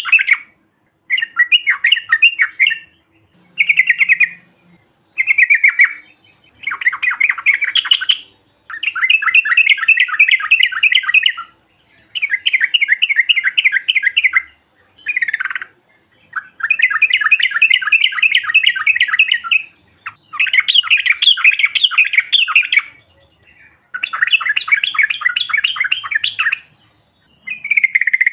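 Yellow-vented bulbul (trucukan) singing: bout after bout of rapid, bubbly chattering notes. Some bouts are short and others run on for about three seconds, with brief pauses between them.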